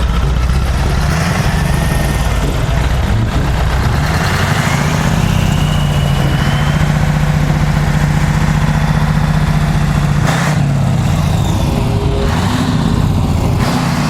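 Scania racing truck's diesel engine running, its pitch rising about a second in, holding steady for several seconds, then dropping and climbing again in the last few seconds as it is revved.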